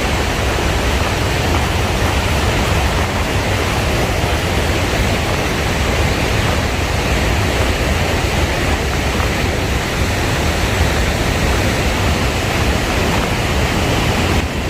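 Steady loud roar of rushing and falling water from the Mardalsfossen waterfall, with a deep low rumble beneath it. The roar dips briefly near the end.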